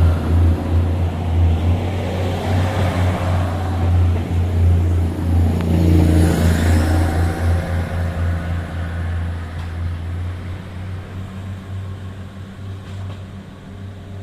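Train passing close by: a steady low hum with rumbling noise that swells to its loudest about six seconds in, then fades away.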